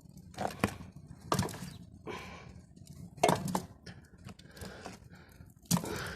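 Lumps of coal being loaded by hand into a stove's firebox: about half a dozen sharp clunks and clinks, spread unevenly over several seconds.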